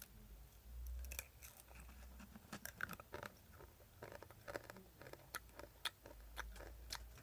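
Chewing and crunching on dry, crunchy instant-noodle snack (Ppushu Ppushu), heard as faint, irregular crackles.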